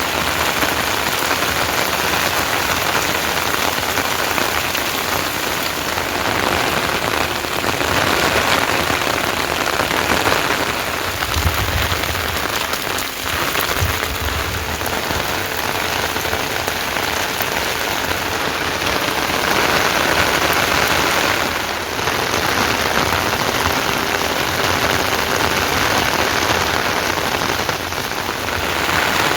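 Heavy rain falling steadily, an even hiss of rain on surfaces, with a brief low rumble partway through.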